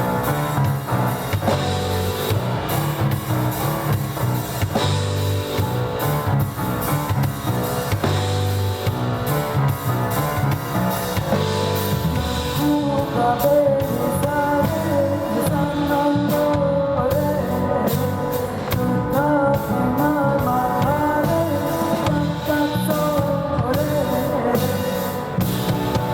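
Live rock band playing: drum kit, bass and electric guitar, with a voice singing over them from about halfway through.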